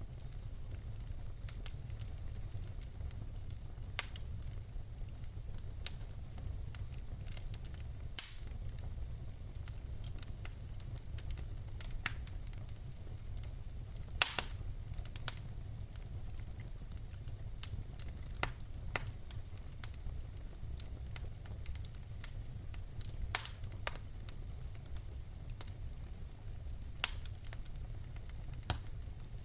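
Wood fire burning in a fireplace: a steady low rumble of flames with irregular sharp crackles and pops from the burning logs, a few louder pops standing out.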